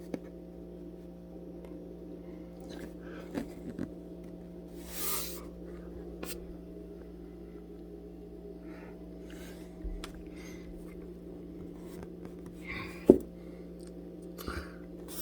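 Steady low indoor hum, with faint scattered rustles and ticks, a short hiss about five seconds in, and one sharp click near the end.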